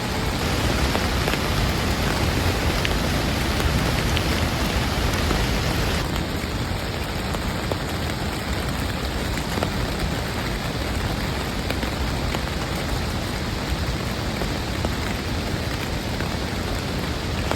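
Heavy rain falling steadily, a dense even hiss of drops; the sound changes abruptly, losing some of its top end, about six seconds in.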